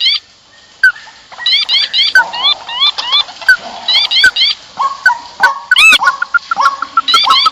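Rice-field birds calling in a noisy chorus, used as a bird-trapping lure call: repeated upward-sweeping chirps in quick groups of two or three, mixed with short sharp notes. A fast run of short notes, about seven a second, starts near the end.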